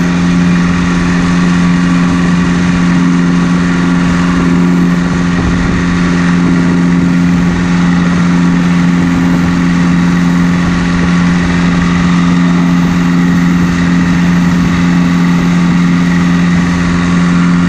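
Straight-piped John Deere 2030 tractor engine running loudly at a steady speed, its exhaust note holding one even pitch.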